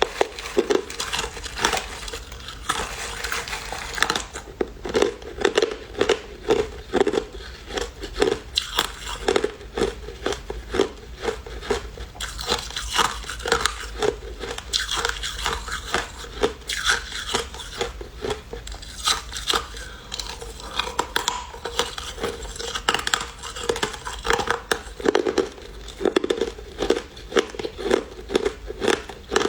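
Crushed ice being chewed close to the microphone: continuous crisp crunching, with a quick series of bites every few seconds.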